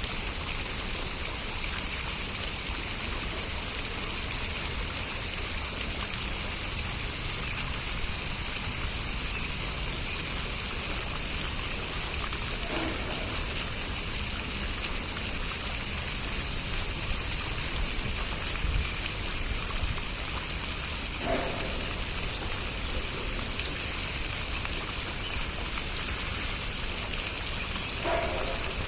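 Running water: a steady, unbroken hiss of flowing or falling water.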